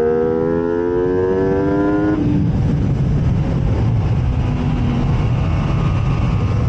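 MV Agusta F3 sport bike's three-cylinder engine pulling hard with the revs climbing, then cut off sharply about two seconds in as the throttle closes. Wind rush and a low engine rumble are left for the rest.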